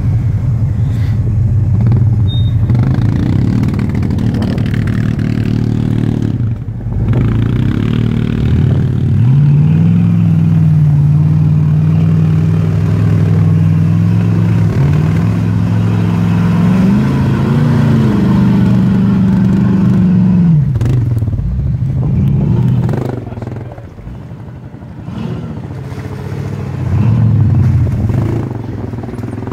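Jeep's LS2 V8 engine revving under load while driving through deep mud and water. The revs hold steady for about ten seconds in the middle, climb briefly, then ease off. Near the end the engine picks up again.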